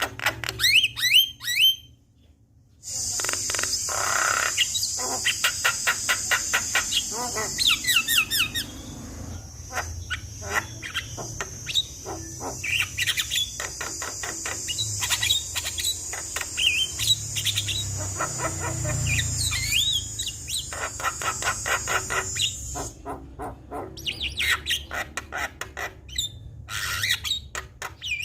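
Javan myna singing a fast, varied song of rattling clicks, chirps and short whistles. A steady high-pitched buzz runs under most of it, and there is a brief break about two seconds in.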